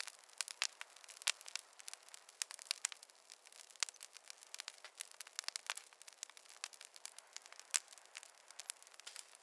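Campfire crackling: quick, irregular pops and snaps, several a second, over a faint hiss.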